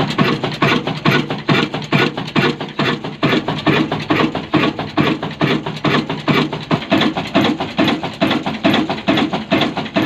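A 12 HP single-cylinder Kala diesel oil engine running steadily at slow speed, an even beat of about five knocks a second. It is running smoothly and well, with no bad knocking from the crank.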